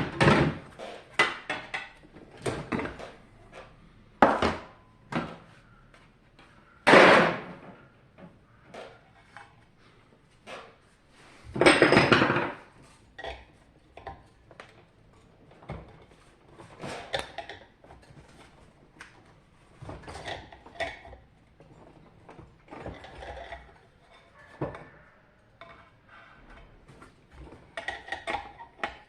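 A dehumidifier being taken apart by hand: irregular knocks, clicks and rattles of its parts and tools. Two longer, louder noisy sounds come about seven and twelve seconds in.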